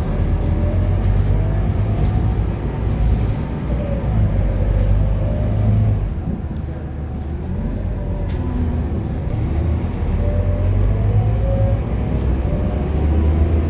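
Scania K230UB city bus's diesel engine pulling hard under load, its pitch rising and falling several times as the bus accelerates and changes gear, over a deep steady rumble.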